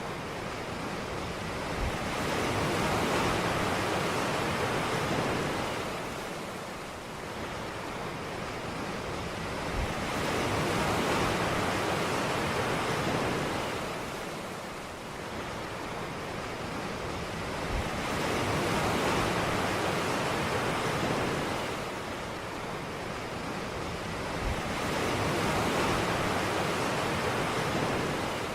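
Ocean surf breaking on a beach: waves rise and fade in a slow, regular rhythm, about one every eight seconds. Each begins with a brief low thump.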